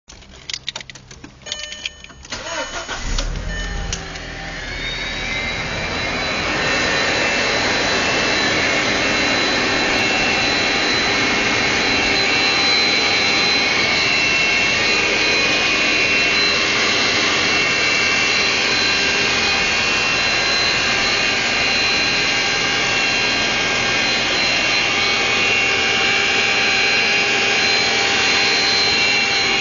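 Volkswagen Passat B5.5 starting: a few clicks and cranking, then the engine catches about three seconds in. A loud whirring noise from under the hood then builds up over the next few seconds and holds steady, with several high whistling tones over the idle. The owner says this noise stops after about a minute of running and does not occur when it is around freezing.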